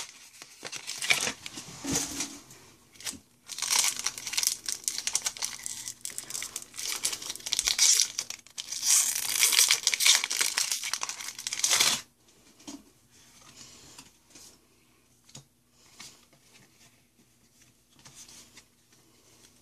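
Pokémon card booster pack wrapper being torn open and crinkled in repeated rustling bursts for about twelve seconds, then only faint rustles and light taps as the cards come out.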